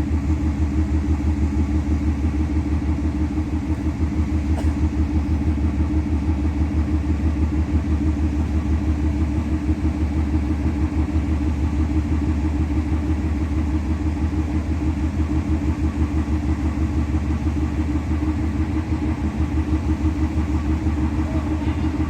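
A large engine idling steadily, with an even, rapid throb.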